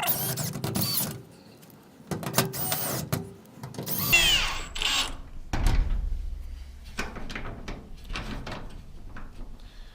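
Power drill with a 10 mm socket running in short bursts, its motor pitch rising and falling, as it drives in the screws holding a garage door roller hinge bracket to the door.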